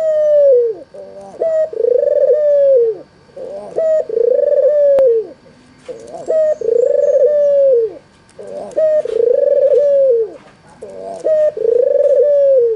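Albino white Barbary dove (red-eyed puter putih) cooing over and over, about six times, each call a short rising note followed by a long rolling coo that drops in pitch at the end, roughly every two seconds. Faint small-bird chirps sound high behind it.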